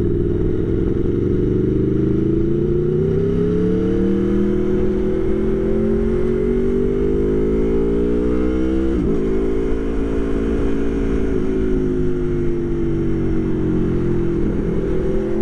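Aprilia Tuono V4 1100 Factory's V4 engine under way, its pitch climbing slowly as the bike accelerates, then dropping sharply about nine seconds in at a gear change before rising and easing off again.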